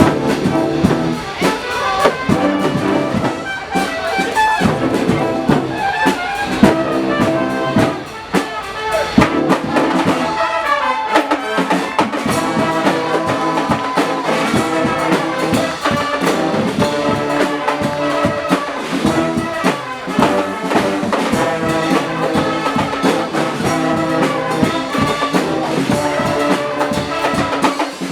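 Guggenmusik band playing a loud carnival tune: brass (trumpets and trombones) blaring together over a steady drum beat.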